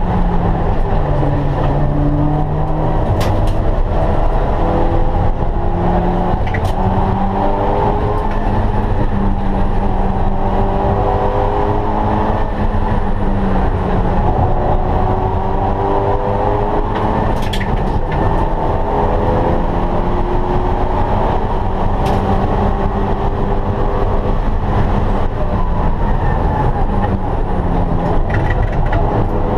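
A Mitsubishi Lancer Evolution VI's turbocharged 2.0-litre four-cylinder engine, heard from inside the cabin while being driven hard. The engine note climbs and drops back again and again as the car revs up and shifts through the gears, with a few short sharp clicks along the way.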